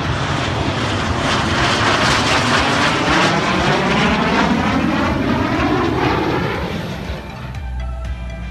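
Aircraft flying past: its engine noise swells to a peak near the middle, with a whooshing tone that sweeps in pitch as it passes, then fades away near the end.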